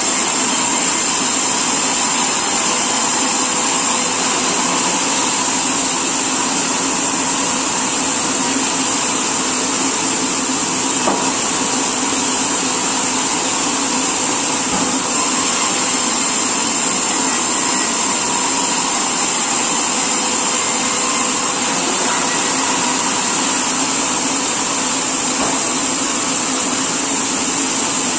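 Sawmill machinery running steadily: a loud, even mechanical noise with a constant high whine and a few faint knocks.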